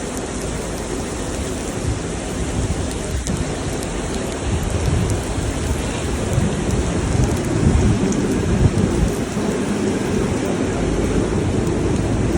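Steady heavy rain, with a low rumble underneath that grows stronger around the middle.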